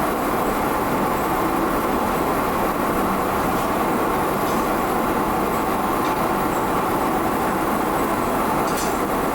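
Steady mechanical noise of workshop machinery running, with a few faint clicks near the end.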